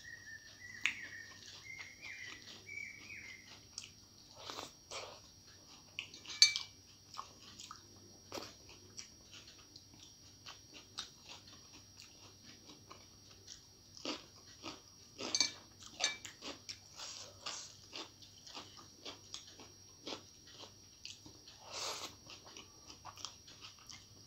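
Close-miked chewing and biting: a steady run of short wet mouth clicks with a few louder crunches, as rice and curry are eaten by hand and a slice of raw cucumber is bitten.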